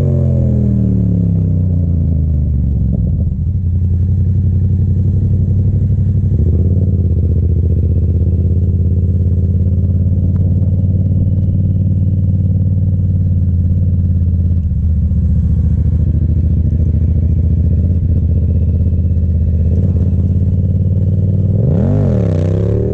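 Yamaha FZ-07's parallel-twin engine running loud and close: its pitch falls over the first few seconds as the revs drop, then holds steady for most of the time. About 22 seconds in, the revs rise, dip and rise again.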